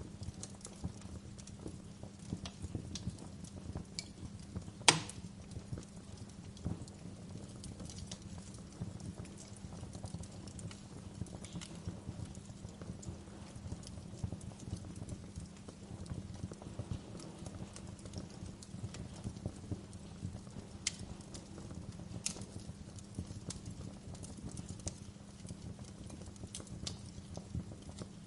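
Wood fire crackling in a fireplace: scattered small crackles with sharper pops, one much louder pop about five seconds in, over a steady low hum.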